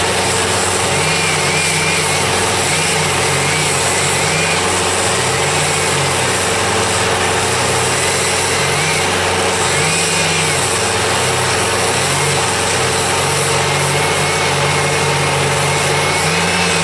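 An engine running steadily under load, its pitch rising and falling again and again, with a dense, steady noise over it.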